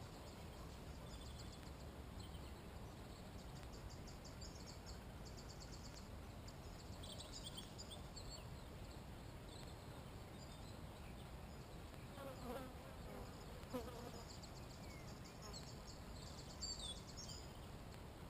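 Faint wild birdsong: scattered high chirps and short rapid trills, over a low steady rumble. A wavering lower buzz comes and goes between about twelve and fourteen seconds in.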